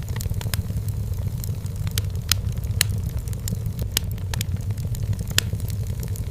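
Burning firewood in a fireplace crackling, with irregular sharp pops and snaps over a steady low rumble of the flames; a few louder pops stand out.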